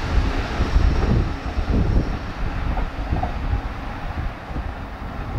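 JR Central 313 series electric train passing at high speed, a heavy rumble of wheels on rail that slowly fades as the last cars go by.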